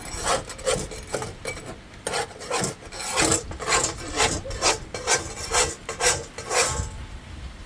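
Rhythmic rasping strokes, about two a second, stopping about seven seconds in.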